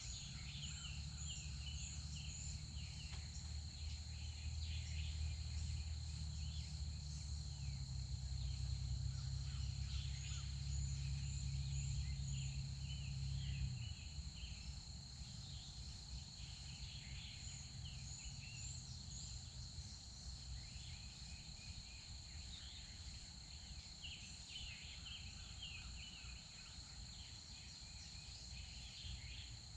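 Woodland ambience: many small birds chirping and a steady high-pitched insect drone. A low steady hum runs underneath for about the first half, then cuts off suddenly.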